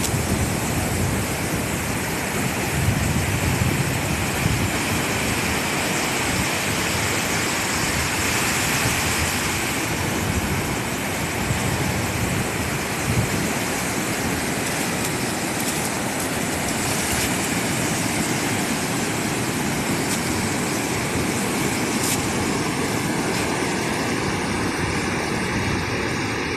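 Steady rushing noise of wind buffeting the microphone over sea surf on the shore, even and unbroken throughout.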